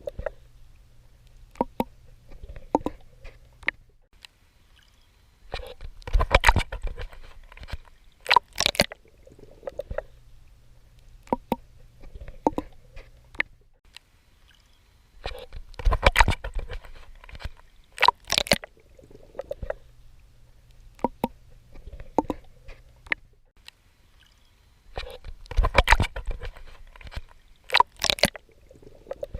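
Swimming in water: sloshing and splashing surges that come in pairs about two seconds apart, recurring about every ten seconds, with small ticks and drips between them and a faint low hum in the quieter stretches.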